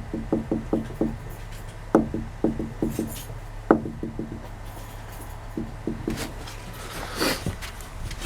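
Volvo S60R front strut tower clunking as the steering wheel is turned: quick runs of sharp knocks, several a second, coming in bursts. The owner suspects the clunk comes from the top of the coil spring, at the spring seat bearing, where the spring visibly jumps as it turns.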